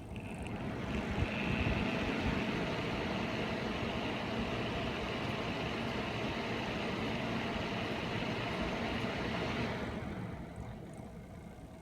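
Stock NZXT 140 mm radiator fans of a Kraken X61 cooler spinning up, running loud and steady, then dying down near the end. This is the insanely annoying noise the fans have developed, a fault of the fans.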